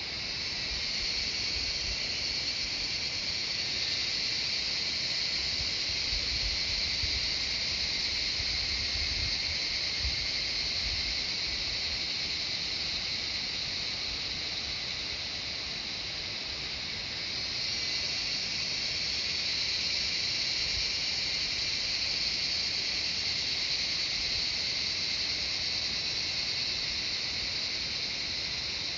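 A chorus of cicadas singing: a steady, high-pitched buzzing drone. It eases slightly a little past halfway and swells again soon after. Some low rumbles come about a third of the way in.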